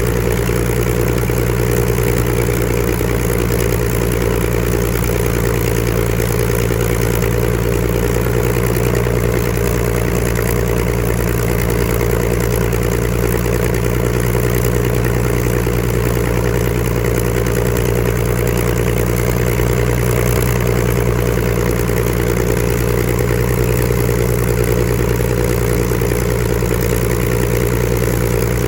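Supermarine Spitfire's Rolls-Royce Griffon V12 aero engine running steadily at a constant speed on a ground run, with no change in revs.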